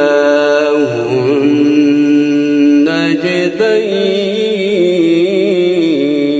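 A male voice chanting Quranic recitation in melodic tajweed style, drawing out the end of a verse in long, wavering, ornamented held notes, with a brief break about three seconds in.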